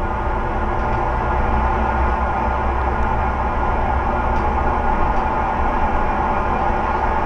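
Scania Omnicity single-deck bus running under way: a steady diesel and drivetrain drone with a whine of several tones in it.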